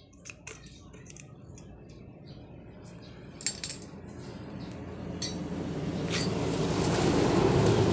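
Light metallic clinks and taps of tools and small metal parts being handled. From about halfway through, a motor vehicle's rumble grows steadily louder.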